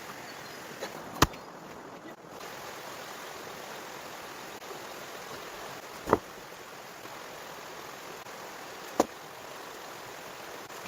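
Three sharp knocks spaced a few seconds apart, over a steady rushing noise.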